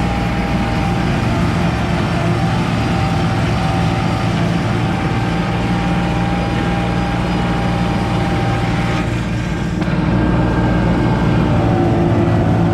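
Kubota L3540 tractor's diesel engine running steadily under load with its PTO-driven brush hog (rotary cutter) spinning, a steady high whine over the engine note. The sound dips briefly about nine seconds in, then comes back a little louder.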